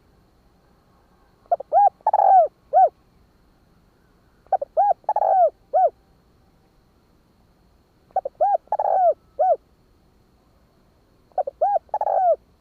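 Spotted dove cooing: four phrases, each a quick run of short rising-and-falling notes with one longer, fuller note, repeated about every three seconds.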